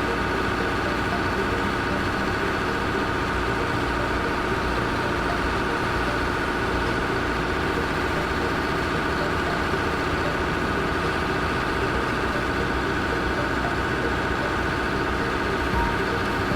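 Heavy vehicle engine running steadily at an even pitch, without revving.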